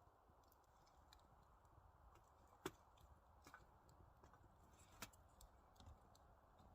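Near silence with faint scattered clicks and ticks, and two sharper clicks about two and a half seconds apart.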